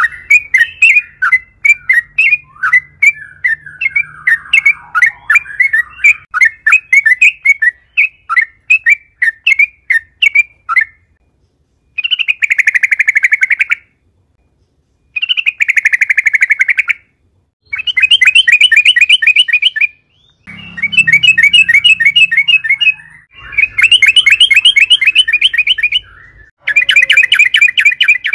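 Yellow-vented bulbul (trucukan) singing. First comes a long run of quick, clipped chirps, then a series of rapid bubbling phrases of about two seconds each, with short pauses between them.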